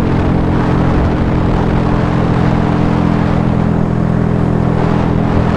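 Honda Grom single-cylinder four-stroke engine running at a steady cruising speed, its pitch holding level, over a constant rush of wind and road noise.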